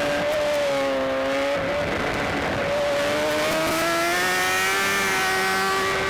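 BMW S1000RR inline-four race engine at high revs. The pitch sags and breaks off briefly about a second and a half in, then climbs steadily as the bike accelerates hard.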